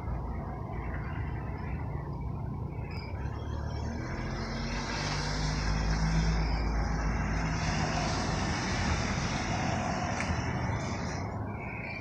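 A road vehicle passing by, its engine and road noise swelling to a peak about halfway through and then fading.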